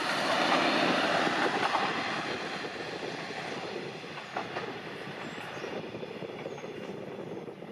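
Watarase Keikoku Railway diesel railcar running on the track, its rumble and rail noise fading steadily as it pulls away.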